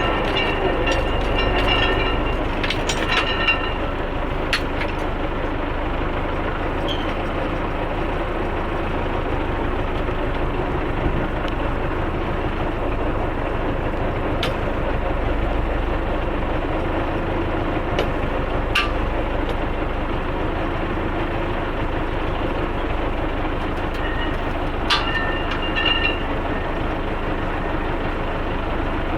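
Tractor running steadily while pulling a KZK-9-2 toothed ring field roller over sown ground, the roller's metal rings rattling continuously, with a few sharp metallic clanks.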